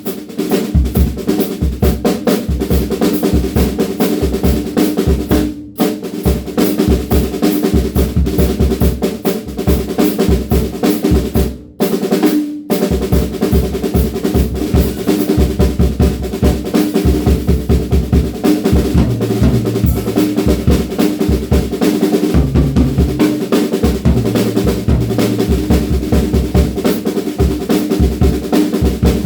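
DW Frequent Flyer drum kit played continuously: fast snare licks and rolls with rimshots over bass drum, the snare ringing with a clear pitch. The playing breaks off briefly twice, about six and twelve seconds in.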